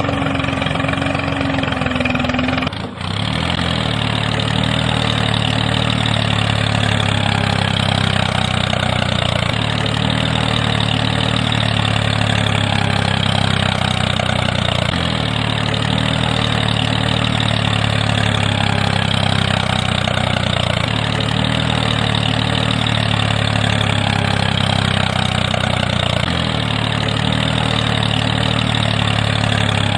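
An engine idling steadily, with a brief break about three seconds in.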